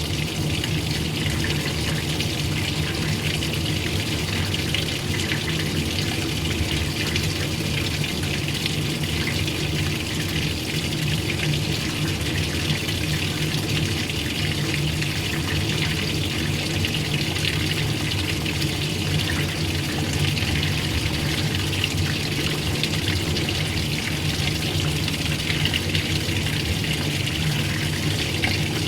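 Old-style washing machine running steadily: rushing, churning water over a low, even motor hum.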